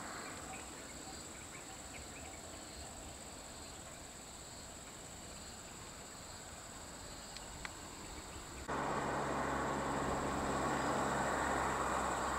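Steady high insect drone over faint outdoor ambience. Near the end it switches abruptly to the louder, steady hum of car engines idling, with a low rumble.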